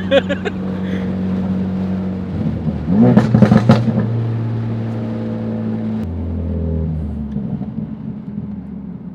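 Tuned Ford Focus RS's turbocharged 2.3-litre four-cylinder running steadily, with a quick burst of loud exhaust pops and crackles about three seconds in from its pop-and-bang tune. The engine note drops about six seconds in and then eases off.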